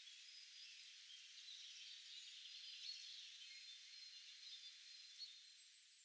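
Very faint outdoor ambience of many distant birds chirping high and overlapping, with a couple of brief louder chirps, fading out near the end.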